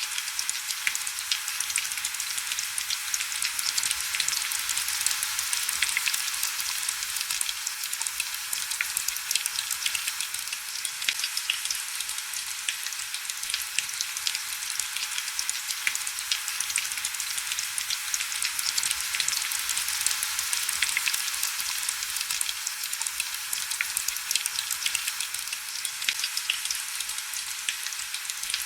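Heavy rain falling steadily: a dense crackle of countless small drop hits, with almost no low rumble.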